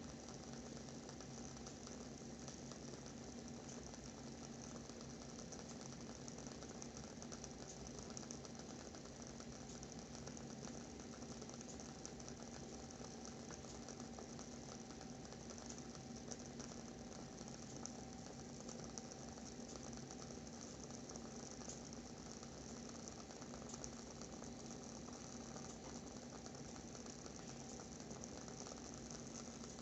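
WoodWick candle's wooden wick burning with a faint, steady crackle of many small irregular ticks, over a low steady hum.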